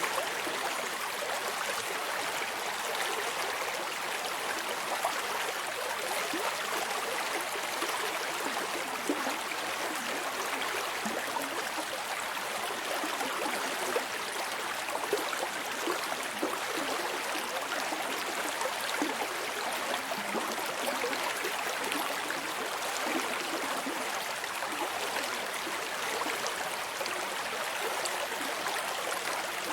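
Steady running water of a stream, with light gurgling.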